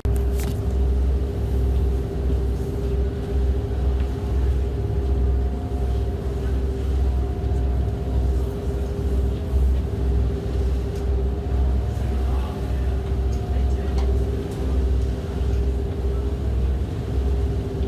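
An engine running steadily, heard from on board: a constant low rumble with a steady hum over it.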